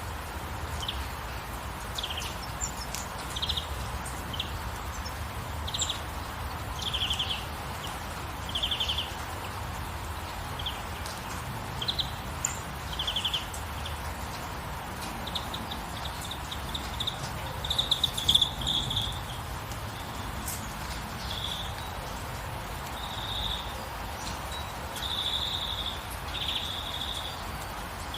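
Birds calling in short high chirps every second or two, turning into longer buzzy trills from about halfway through, over a steady hiss of rain.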